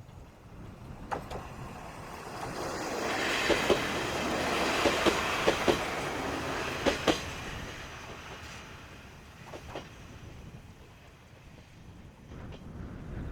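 Kominato Railway diesel railcar running past, its wheels clicking over rail joints in quick pairs as each bogie crosses. The run swells to a peak a few seconds in, then fades away.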